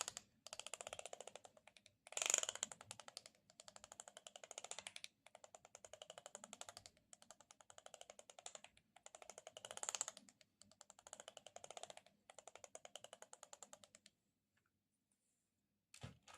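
Close-miked ASMR trigger sound: a series of strokes, each about a second long, of very fast fine crackling or clicking with short gaps between them. The strokes stop about two seconds before the end, and one short knock follows near the end.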